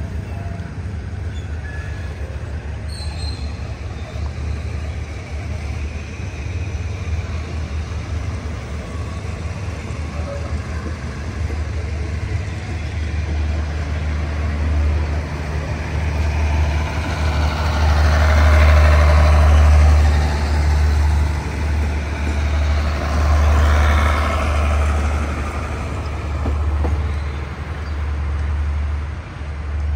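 Diesel train engine running with a low drone that grows louder past the middle, peaking twice, with a rushing noise at its loudest moments.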